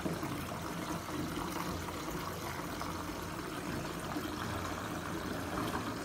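Bath taps running, with water pouring steadily into a filling bathtub.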